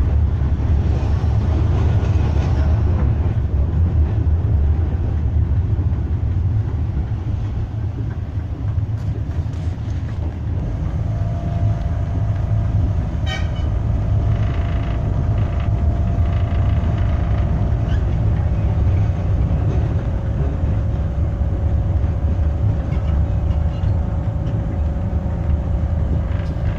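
Tram running on rails with a steady low rumble. A steady whine joins about eleven seconds in and holds to the end, and a short ringing tone sounds a couple of seconds after the whine starts.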